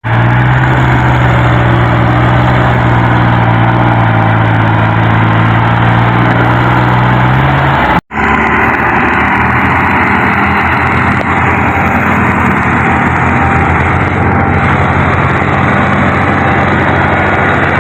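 Tractor engine running steadily and loudly. The sound cuts off abruptly about eight seconds in, then an engine is heard running again with a rougher, more uneven hum.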